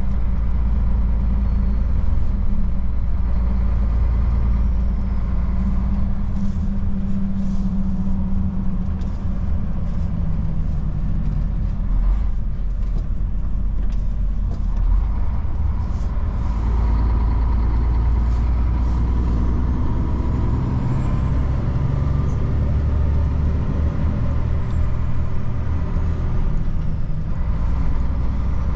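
Old Mercedes truck's diesel engine running while driving in town, a low rumble whose pitch shifts as the throttle and gears change. A few short clicks in the first half, and a faint high whine that rises and falls about two-thirds of the way through.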